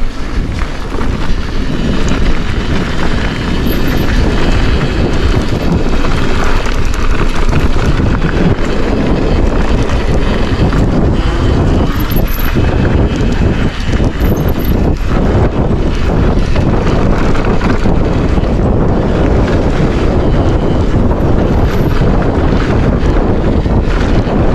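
Wind buffeting the microphone, with tyre noise and frequent small knocks and rattles from a Forbidden Dreadnought mountain bike riding down a dirt trail.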